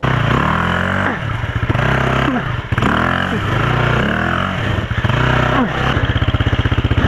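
Off-road motorcycle engine revved up and let fall back several times, then settling into a steady, pulsing idle about six seconds in.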